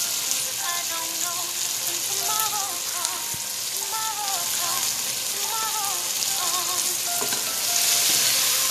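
Garlic, onion, tomato and fried pork pieces sizzling steadily in hot oil in a nonstick pan. Near the end a spatula stirs them, and the sizzle gets a little louder.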